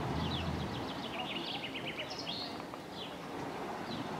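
Small songbirds chirping and twittering, with a quick run of short, falling notes in the middle, over steady outdoor background noise.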